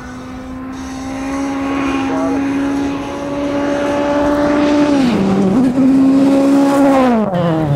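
World Rally Car's 1.6-litre turbocharged four-cylinder engine held at high revs as the car approaches, growing louder. The revs dip briefly about five seconds in, come back up, then fall away near the end as the driver lifts off.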